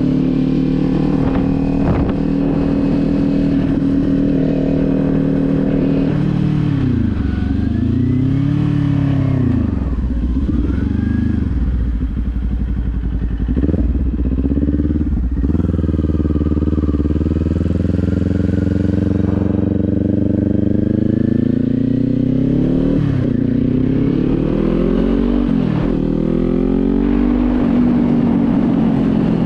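Kawasaki Z400's parallel-twin engine heard from the saddle while riding: steady cruising at first, then the revs drop and rise several times with gear changes, followed by a long gradual climb in revs under acceleration and a few quick drops and rises near the end.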